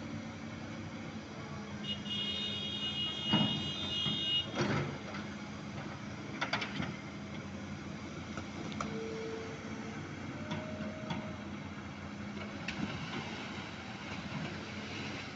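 Steady machinery running with a low hum during a ship's launch from dock. A high tone sounds for about two seconds, followed by several sharp metallic knocks and clanks.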